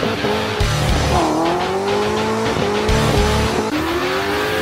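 Car engine accelerating hard, its pitch climbing, dropping sharply at a gear change about a second in, then climbing again, over background music with a heavy recurring beat.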